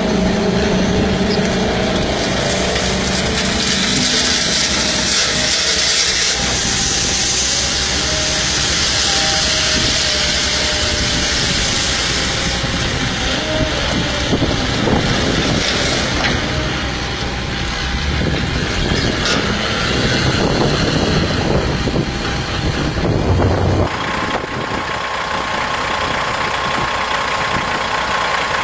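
Heavy dump truck running, a loud steady engine and machinery noise. The sound changes abruptly near the end, leaving a steady whine over the engine.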